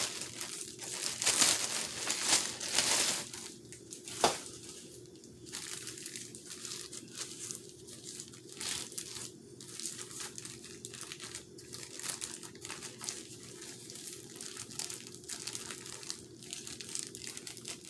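Plastic packaging crinkling as a packaged replacement goggle lens is handled, louder for the first three seconds, with one sharp click about four seconds in, then lighter crinkling.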